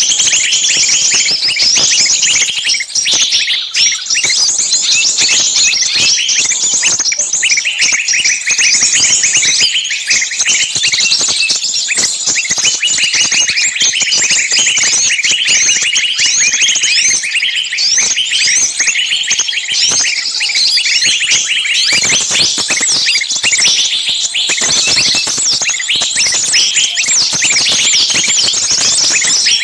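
Many birds chirping at once: a dense, continuous chatter of short, high chirps and quick whistles overlapping without a break.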